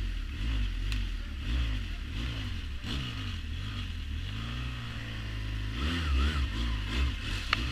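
A 350cc quad bike engine revving up and down under way, its pitch rising and falling repeatedly.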